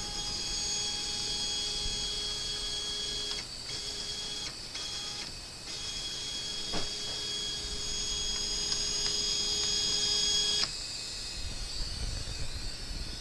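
Nema 23 stepper motors of a hobby CNC machine whining steadily as the axes move, with short pauses a few seconds in and a single click near the middle; the motion stops about ten and a half seconds in. The motors run on a new stepper driver, without their old rattling noise.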